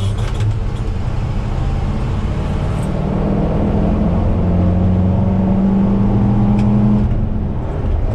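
Heavy vehicle engine running steadily, its hum growing and rising slightly in pitch for a few seconds, then dropping back about seven seconds in.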